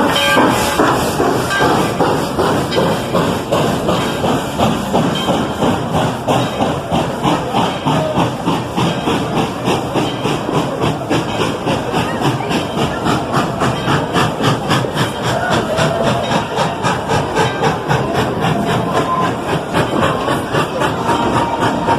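Steam locomotive working a train: a steady, even rhythm of exhaust chuffs over a continuous hiss of steam.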